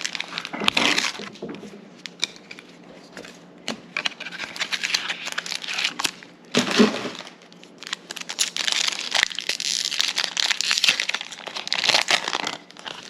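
Foil booster-pack wrapper being torn open and crinkled by hand, with crackling rustles and sharp clicks of handling.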